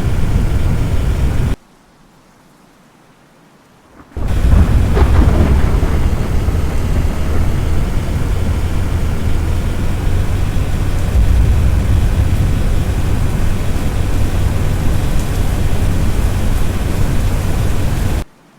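Thunderstorm noise: heavy rain with a deep, steady rumble, cutting out suddenly for a few seconds near the start and coming back. A crackle of thunder sounds just after it returns.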